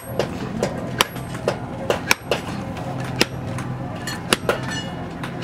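Hand hammer striking steel on an anvil in a steady forging rhythm of about two blows a second, each blow ringing briefly, over a steady low hum.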